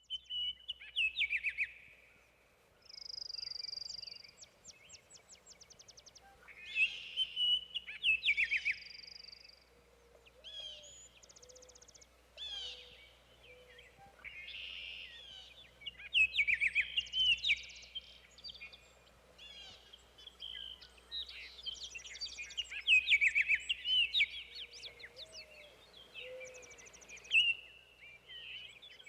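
Several songbirds singing at once in a forest: overlapping whistled phrases, short trills and fast runs of repeated notes, some louder bursts from nearer birds.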